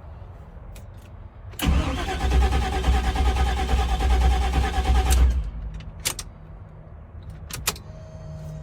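Army truck's engine cranking on the starter for about three and a half seconds without catching, then cut off, followed by a couple of sharp clicks. The no-start is taken for lack of fuel, with the injectors suspected.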